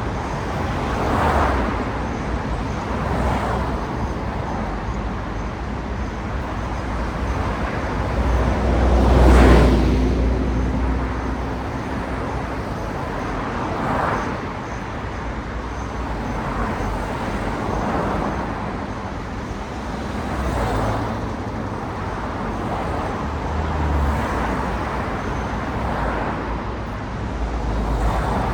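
Road traffic: cars passing one after another over a steady traffic hum, each pass swelling and fading. The loudest pass, about nine seconds in, carries a deep rumble.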